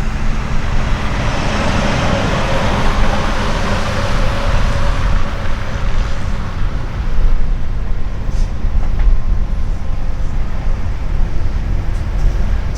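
A semi truck's diesel engine and tyres rolling past: a heavy rumble with a rushing hiss that swells over the first few seconds and then eases off.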